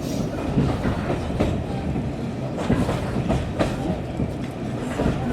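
Railway carriage of a steam-hauled train running along the line, heard from inside: a steady rumble of wheels on rails with a few scattered clicks.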